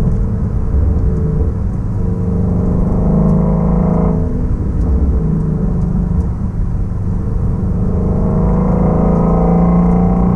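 2016 Shelby Mustang GT350's flat-plane-crank 5.2-litre V8 and exhaust under way, pulling up through the revs: the pitch climbs for about two seconds, drops suddenly just after four seconds in, then climbs again near the end.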